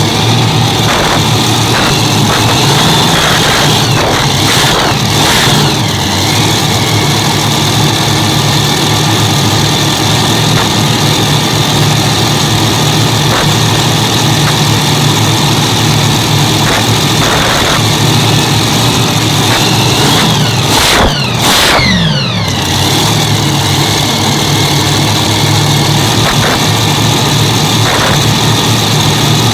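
Hemi V8 engines of a pulling tractor running loudly under test, with the engine note dropping in pitch as the revs fall about five seconds in and again around twenty-one seconds.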